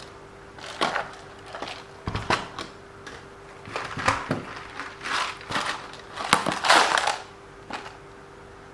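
Irregular clatter and rustle of small hard parts being handled, a dozen or so short bursts that stop near the end.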